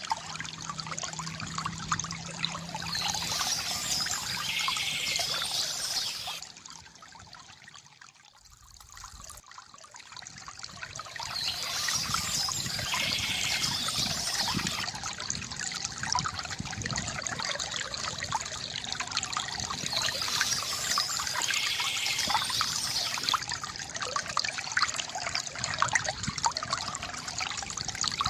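Water from a bamboo fountain trickling and pouring steadily. It dips quieter for a few seconds about a quarter of the way in, then comes back.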